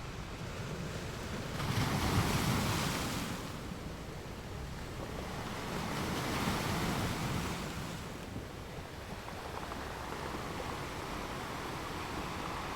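Ocean waves: a steady rush of surf that swells louder twice, briefly about two seconds in and more slowly around six seconds in.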